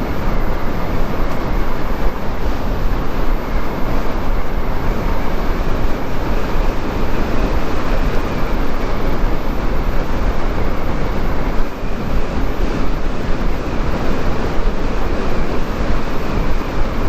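Steady wind rush and road noise from a Chinese motorcycle underway, with a strong low rumble and no break throughout.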